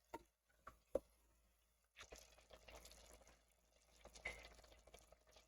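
Faint sound of marinated chicken cooking in a pressure cooker: a few light taps, then from about two seconds in a soft, crackly bubbling.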